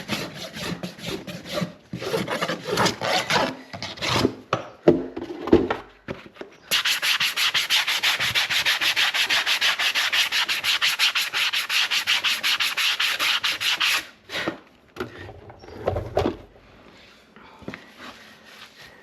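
Farrier's rasp scraping a horse's hoof: uneven strokes at first, then about seven seconds of fast, even strokes, roughly five a second, that stop abruptly, followed by a few knocks.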